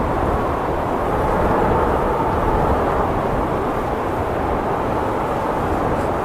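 Blizzard wind blowing steadily, a loud continuous rushing noise with a slight swell a second or two in.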